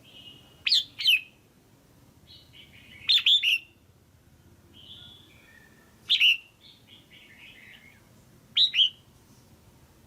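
Female red-whiskered bulbul calling: short, sharp call notes in clusters of two or three, repeating about every two to three seconds, with quieter warbled notes between them. It is a call that keepers play to stir a male bulbul or to pair birds.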